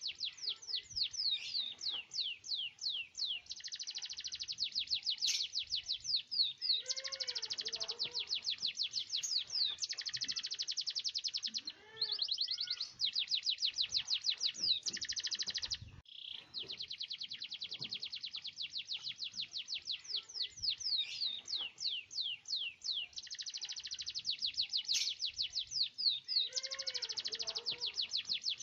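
Domestic canary singing continuously in long rolling trills: fast runs of rapidly repeated high notes. Some runs slow into separate sweeping notes, with lower warbling phrases in between and brief breaks about twelve and sixteen seconds in.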